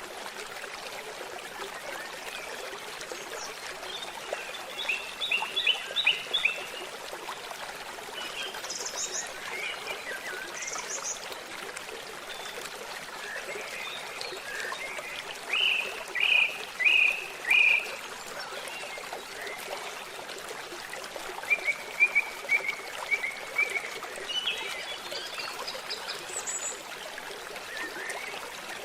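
Babbling stream with birds singing: a steady rush of water, over which short runs of quick chirps come and go several times, the loudest about five, sixteen and twenty-two seconds in.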